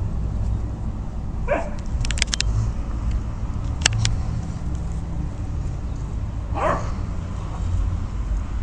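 Central Asian Shepherd (Alabai) puppy giving two short falling yelps, about five seconds apart, over a steady low rumble, with a few sharp clicks in between.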